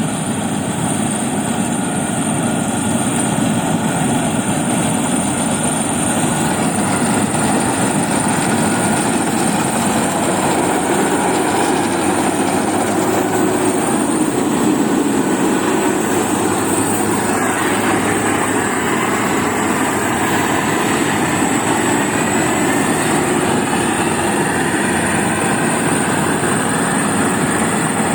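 Heavy farm machinery, such as a combine harvester, running steadily at working load: a continuous loud mechanical din with a constant high whine, its texture shifting about seventeen seconds in.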